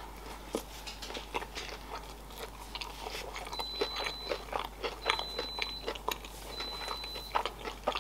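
Close-miked chewing of a mouthful of baked sushi roll: irregular wet clicks and soft crunches of a mouth working on food.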